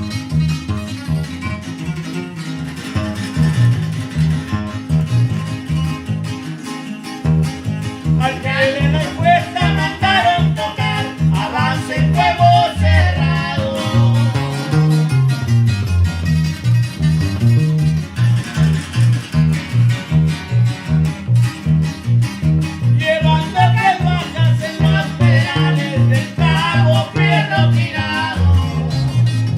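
Norteña band playing an instrumental passage: plucked and strummed guitars over a steady bass line, with fast melodic runs breaking in several times.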